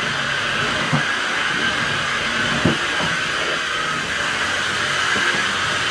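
Dirt Devil 3-in-1 Cordless Reach Max Plus stick vacuum running with a steady whirring hiss, with a few faint ticks as it is worked.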